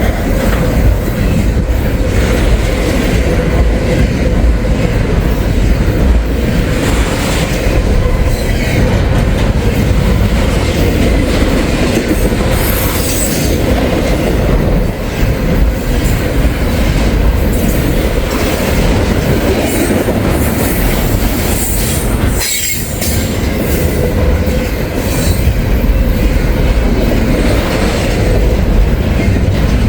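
CSX intermodal freight train's container cars rolling past close by, steel wheels clacking over the rail joints with a steady wheel squeal. There is a brief dip in the noise about 22 seconds in.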